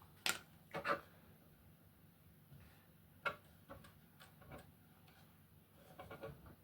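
Light, scattered clicks and taps of small hard plastic parts being handled and set down: a sharp pair near the start, a single click a little past three seconds, and a quick flurry of small taps near the end.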